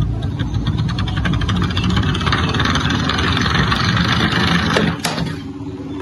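An engine-like motor sound running with a rapid pulsing rattle, which drops away about five seconds in.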